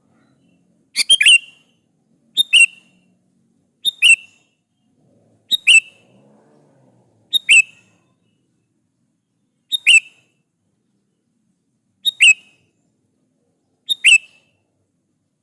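Sooty-headed bulbul (kutilang) calling: eight short, sharp double-note calls in a row, one about every one and a half to two seconds.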